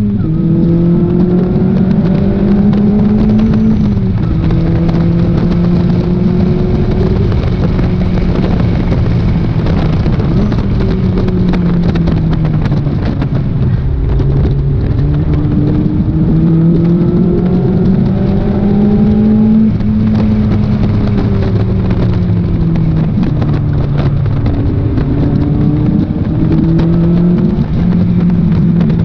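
Lotus Elise engine driven hard on track, heard from the open cockpit. The revs climb and drop again and again, with sharp falls at gear changes and slower falls when it slows for corners, over a steady wind rush.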